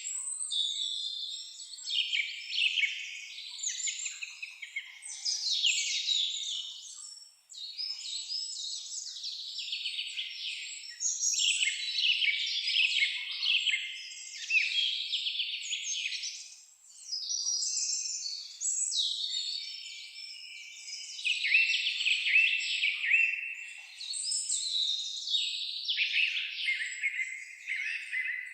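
A chorus of songbirds singing, many overlapping rapid chirps and trills almost without a break.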